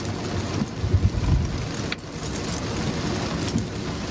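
Inside a car driving in heavy rain: a steady hiss of rain and road under the engine's hum. A few low thumps come about a second in, and a single sharp click near two seconds.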